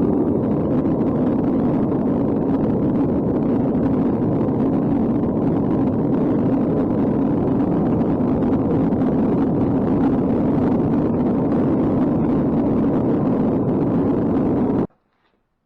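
Gas-fired melting furnace burner running with a steady rushing noise, which stops abruptly near the end.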